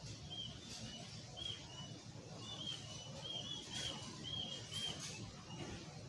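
A small bird chirping: a quick series of short high notes, about a dozen, repeated through the first five seconds, over a low steady background rumble.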